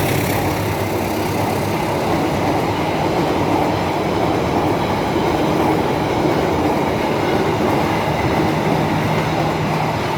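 Train passing close by a level crossing: a steady, loud rumble and rattle of the carriages' wheels on the rails.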